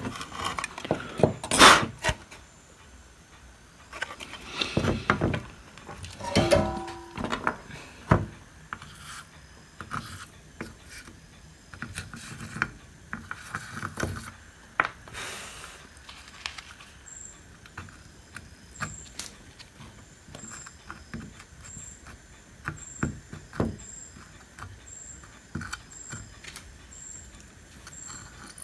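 Workbench handling noises as parts of a home theater's metal case and power supply are worked on: irregular clicks, knocks and scraping. There is a brief squeak about six seconds in, and a faint high tick repeats about every two-thirds of a second in the second half.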